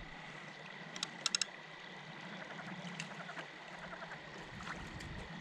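Faint splashing and trickling of shallow water, with three or four quick sharp clicks about a second in and a thin steady high whine underneath.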